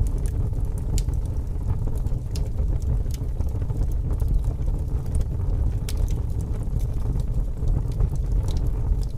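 Wood campfire burning, with scattered sharp crackles and pops over a steady low rumble of strong wind.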